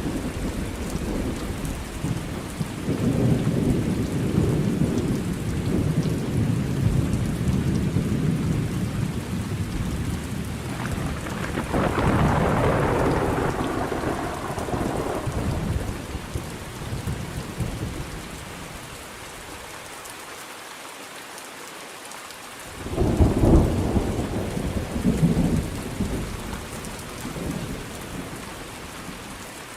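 Thunderstorm with steady rain and long rolling rumbles of thunder through the first half. A sharp, loud thunderclap comes about three-quarters of the way in and rumbles away, leaving the rain.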